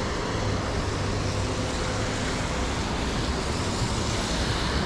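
Steady rain and wet-road traffic noise: a constant hiss with a low rumble of vehicles underneath.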